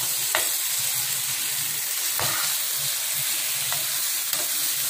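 Mutton fry sizzling in hot oil in a frying pan as it is stirred with a wooden spatula, a few clicks of the spatula against the pan breaking the steady hiss. The meat is at its final dry-fry stage, with the oil separating out.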